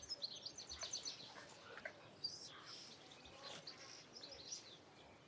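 Small birds chirping and singing faintly: a quick run of high notes in the first second, then scattered chirps.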